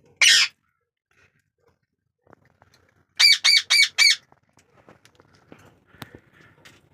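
Green ringneck parakeet squawking: one harsh squawk at the start, then a quick run of four shrill calls about three seconds in. Faint small clicks follow.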